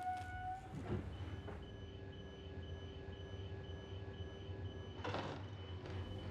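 Inside a train carriage with a low steady rumble: a door slides with a whoosh about a second in, then a high door-warning beep repeats rapidly, with a second whoosh about five seconds in.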